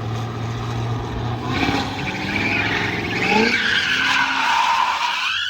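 Cadillac Blackwing's supercharged engine running under throttle while drifting, with tyres squealing from about a second and a half in, the squeal wavering in pitch. The sound cuts off abruptly at the end.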